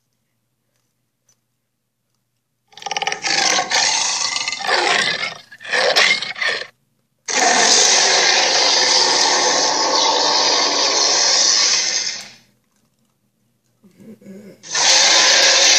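Allosaurus roar sound effects: after a few seconds of silence, a rough, broken roar, then a short one, then a long steady roar of about five seconds, with another beginning near the end.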